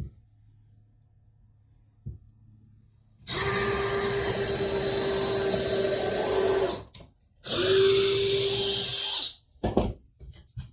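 Power drill running in two bursts, one of about three and a half seconds and a shorter one of about two seconds, with a steady whine. A few short knocks come before and after.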